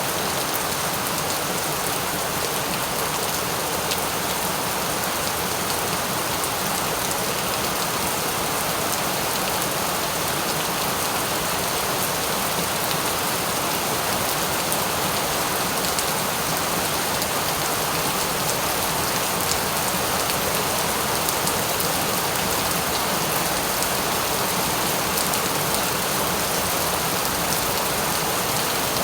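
Steady rain falling and pattering on a surface, an even hiss of many fine drops with no breaks.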